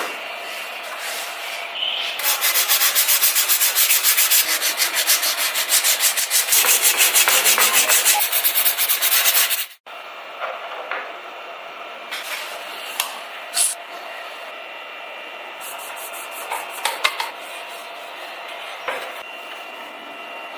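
Hand sanding of a scale model car's body with sandpaper: quick back-and-forth strokes, about five a second, that stop abruptly about halfway through. Quieter rubbing with a few small clicks follows.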